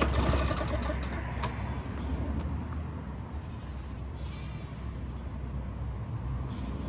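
Small push-mower engine running with a rapid even beat, then dropping off over the first two seconds to a weaker low hum. About four seconds in comes a brief high-pitched squeal.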